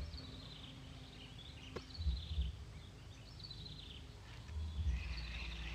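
A bird repeats a short, high, falling song phrase about once a second, over a low rumble that swells twice.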